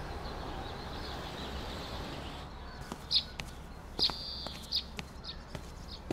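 Birds chirping: short high chirps repeat from about halfway through, over a steady low background hum.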